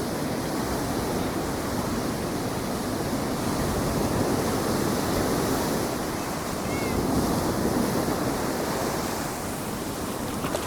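Ocean surf breaking and washing up the beach: a steady rush that swells twice as waves come in.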